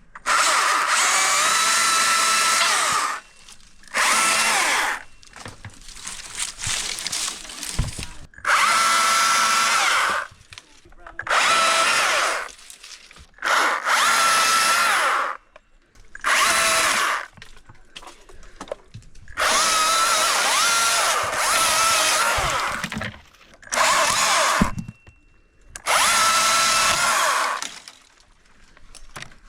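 Electric chainsaw cutting branches in repeated short bursts, its motor whining at a steady pitch under load, stopping and starting about nine times.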